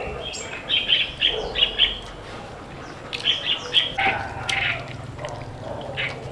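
Birds chirping: short high calls in quick runs of several a second, coming and going.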